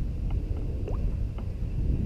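Wind buffeting the microphone of a moving bicycle, a heavy uneven low rumble, with a few faint short ticks and a small rising chirp in the background.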